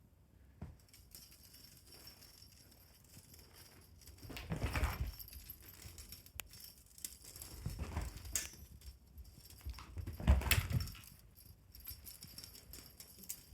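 A pet's teaser-wand toy jingling and rattling as animals bat at it and scuffle, with three louder bursts of rustling and thumps.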